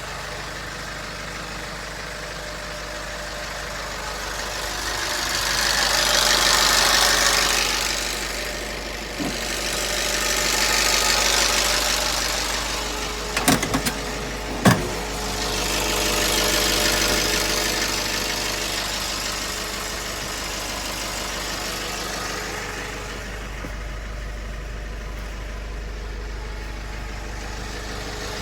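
Nissan Atlas truck engine idling, swelling up and back down three times as it is revved. There are a few sharp clicks or knocks about halfway through.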